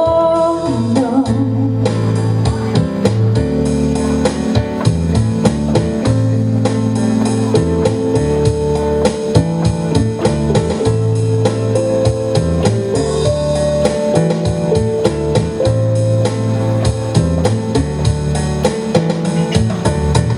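Live instrumental section of a jazz-pop song: guitar over a steady drum-kit beat, with piano, and no singing.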